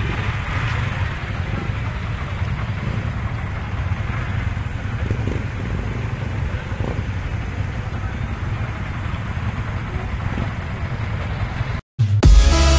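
Motorcycle riding: a steady low rumble of engine and wind noise. Near the end it cuts off abruptly and music with a heavy beat starts.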